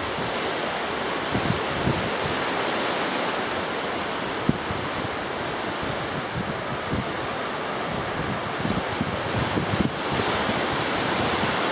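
Strong wind buffeting the microphone in uneven low gusts over a steady rushing noise.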